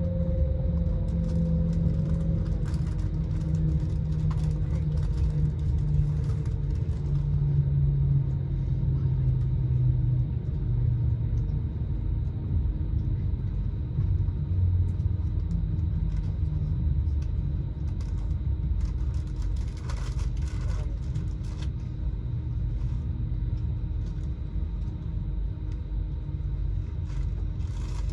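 Steady low rumble of a vehicle running, with a whine near the start that slowly falls in pitch.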